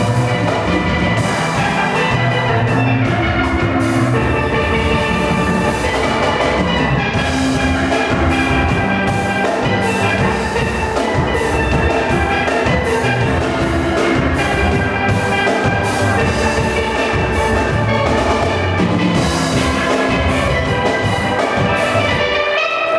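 Steel orchestra playing: several steelpans carry the melody over a bass line and a steady drum-kit beat.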